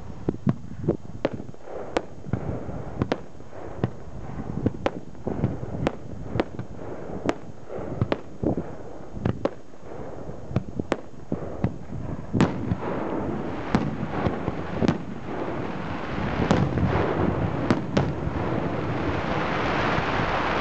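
Fireworks going off: a rapid string of sharp bangs and pops, about one or two a second. A rushing, hissing noise builds up over the last few seconds.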